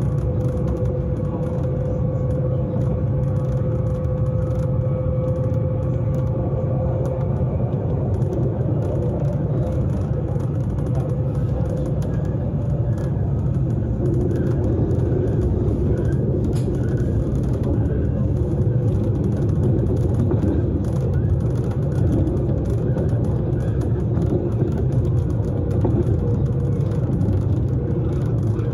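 S-Bahn electric train running along the track: a steady rumble of wheels and running gear, with a steady whine that fades out about seven seconds in.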